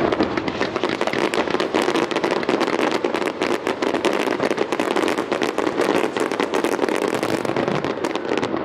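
Fireworks going off in a dense, unbroken crackle of many rapid small bangs from crackling shells.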